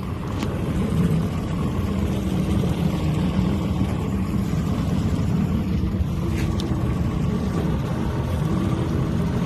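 A motorboat's engine running steadily at low speed, a continuous low hum with a steady drone.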